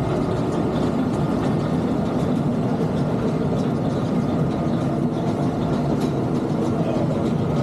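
Roller coaster train running steadily along its track, a continuous rail noise with no break.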